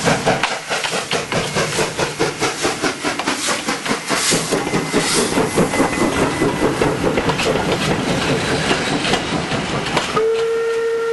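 Steam train under way, with an even rhythm of sharp beats, about four or five a second. About ten seconds in, the steam whistle starts a long steady note.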